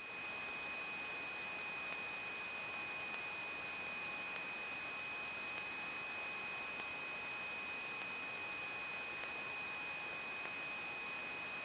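A steady high electronic tone over light hiss, with faint short ticks about every 1.2 seconds, in the aircraft's intercom audio feed; no engine sound comes through.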